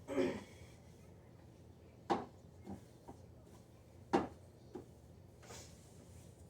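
Sharp knocks of household objects being handled or set down, two loud ones about two seconds apart, each followed by a lighter tap, over a low steady hum. A brief throat-clearing sound comes at the very start.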